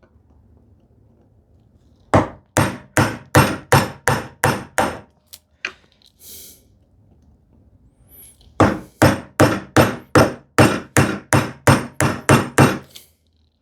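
Bevel-edge chisel being struck in quick, even blows as it chops a mortise in a wooden leg: a run of about eight sharp knocks, a pause, then a run of about a dozen more at roughly two and a half a second.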